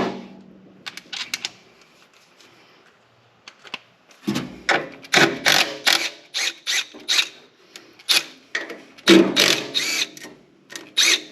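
Hand tools working on the metal intake fittings of a multi-fuel truck engine: a sharp clank at the start, then from about four seconds in a quick, uneven run of ringing metallic clicks and clanks, like a ratchet being worked.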